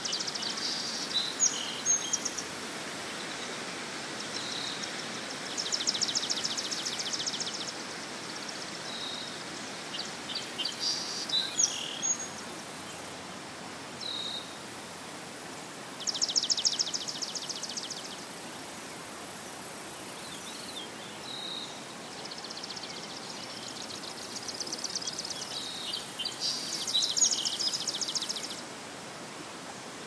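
Marsh birds singing: buzzy, rapidly pulsed trills of about two seconds come every few seconds, with short chirps and single notes between them. A steady hiss runs underneath.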